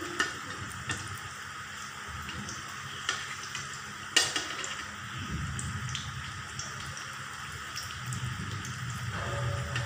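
Fish roe fritters sizzling steadily in hot mustard oil in a kadai, with scattered small pops and one sharper click about four seconds in.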